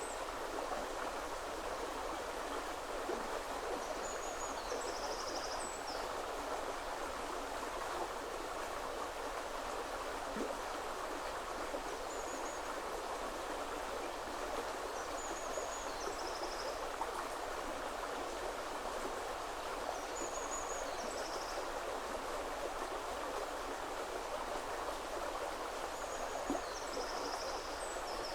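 Woodland river water flowing steadily, a continuous rushing wash. Over it a small songbird repeats a short, high chirping phrase every few seconds.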